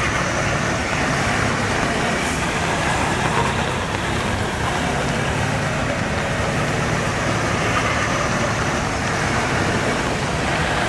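Truck engine running steadily under a dense haze of noise, with no sharp revs or impacts.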